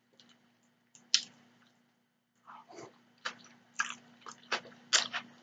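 A person chewing food close to the microphone with wet mouth smacks: one sharp smack about a second in, then a quick run of smacks from about halfway.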